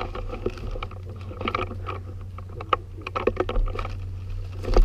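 Irregular clicks and rustling close to the microphone over a steady low rumble, with a louder thump near the end.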